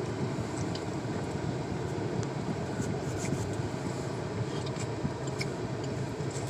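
Steady background hum with a few faint, scattered small clicks.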